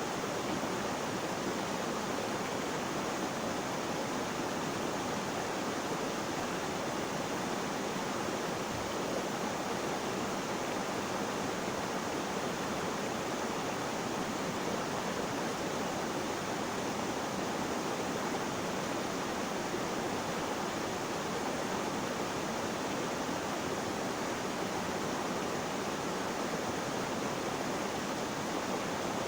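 Flowing water rushing steadily and evenly, with no change in level or pattern.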